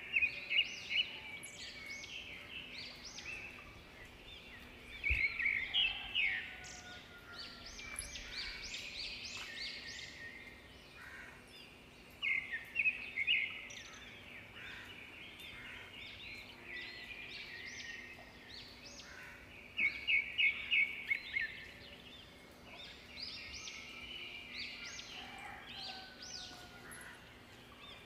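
A songbird singing nearby in loud bursts of rapid chirping notes, a phrase coming about every seven seconds, with other birds calling faintly in between.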